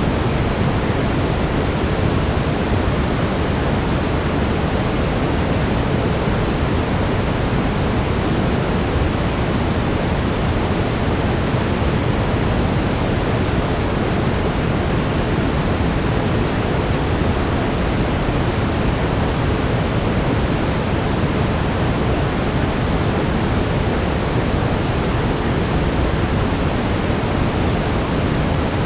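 Steady brown noise: an even, deep rushing hiss, strongest in the low end, with no change in level.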